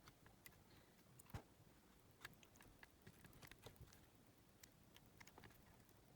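Near silence with faint scattered clicks and taps, the clearest about a second and two seconds in: small parts and tools being handled while a cassette player is taken apart.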